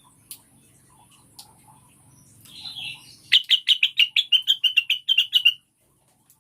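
Female blue-winged leafbird (cucak wilis) calling: a short harsh note, then a fast run of about sixteen chirps at roughly seven a second, which stops abruptly.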